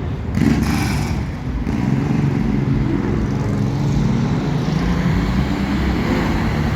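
Car engine running steadily, with a brief burst of hiss in the first second or two.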